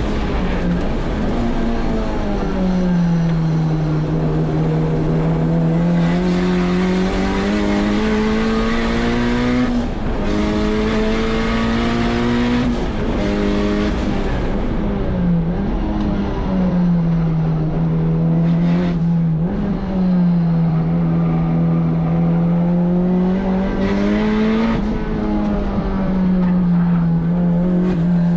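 Turbocharged K24 four-cylinder engine of a Honda S2000 driven hard on a race track, its note rising under acceleration and falling off into corners, with several sudden dips in pitch.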